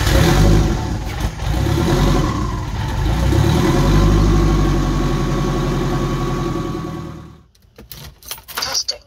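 Turbocharged Volvo engine running on E85 just after a start, its revs swelling and sagging as the gas pedal is worked to keep it from stalling: a sign that the start-up fuelling (cranking and after-start enrichment) is not yet tuned. The engine sound fades out about seven seconds in, and a few sharp clicks follow near the end.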